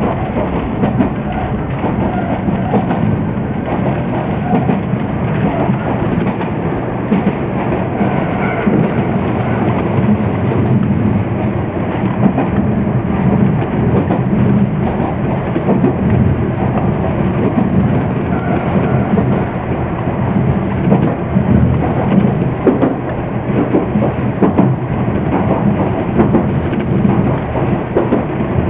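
Electric commuter train running along the track, heard from inside the driver's cab: a steady, loud rumble of wheels on rail and running gear, with scattered knocks from the track.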